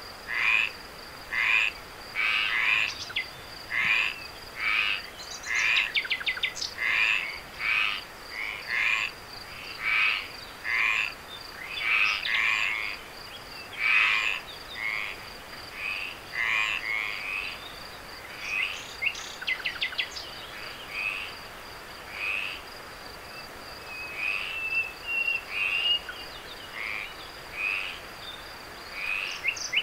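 Chorus of frogs calling at night: short croaking calls repeating about once or twice a second, over a steady high-pitched insect trill, with a few brief runs of rapid clicking.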